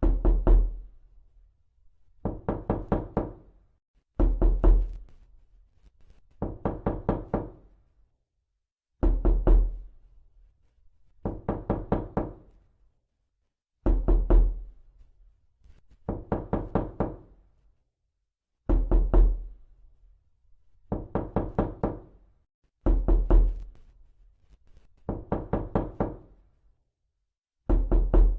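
Knocking in quick sets of four or five sharp knocks, a set about every two seconds, with silence between sets.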